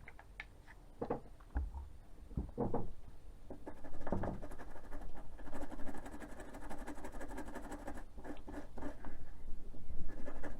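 A toothbrush scrubbing a key fob's circuit board wet with isopropyl alcohol. A few knocks and taps come in the first few seconds, then steady, rapid scratchy scrubbing strokes.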